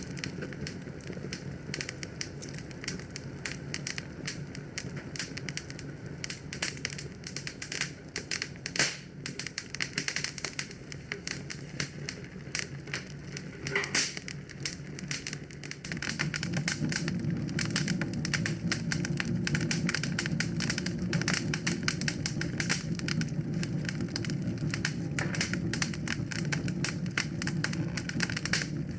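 Wood fire in a fireplace crackling, with rapid pops and snaps over a low steady rumble that grows louder about halfway through.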